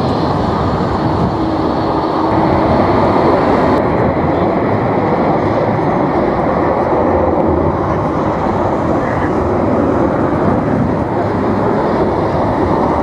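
Jet airliner's engines running at the airport in a steady, loud, even noise, mixed with strong wind on the microphone.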